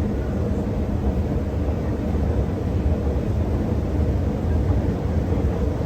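Steady low rumble of underground station ambience, even throughout with no distinct events.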